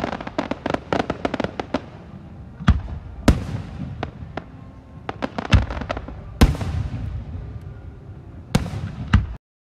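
Fireworks display: a quick run of crackling bangs, then a series of separate loud shell bursts every second or few. The sound cuts off abruptly just before the end.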